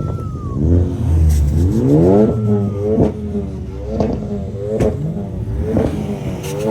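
Modified car engine revving through a loud aftermarket exhaust: the revs climb steeply once, then are blipped up and down about once a second, with a few sharp pops.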